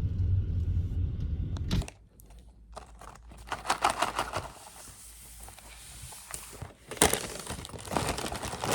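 A low vehicle rumble that cuts off about two seconds in, then two bouts of crinkling and rustling from something crumpled or handled.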